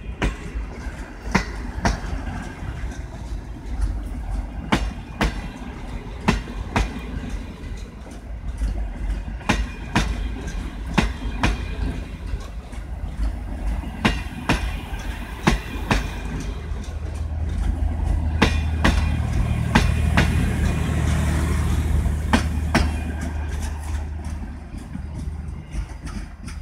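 Passenger coaches of a departing train rolling past, their wheels clicking over the rail joints about once a second over a steady rumble. A deeper rumble swells for several seconds in the second half, then fades as the last coach draws away.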